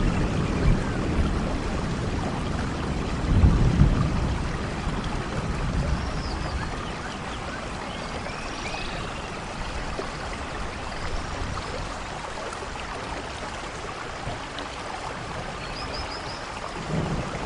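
Steady rain falling, with low rumbles of thunder swelling about three seconds in and again at the very end. Faint high chirps sound now and then.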